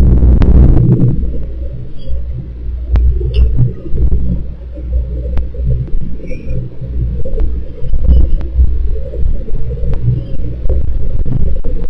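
Wind buffeting a microphone: a loud, gusting low rumble that swells and eases every second or two, with a few scattered faint clicks and some faint high chirps.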